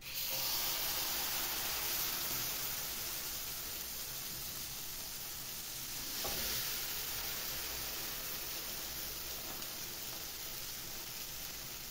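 Omelette batter sizzling in hot oil in a frying pan, starting abruptly as the batter hits the pan and frying steadily while a ladle spreads it, with a brief louder patch about six seconds in.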